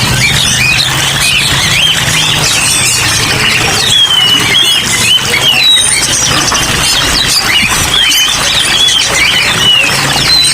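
Many caged songbirds chirping and whistling at once: a dense, overlapping chorus of quick rising and falling calls, over a steady low hum.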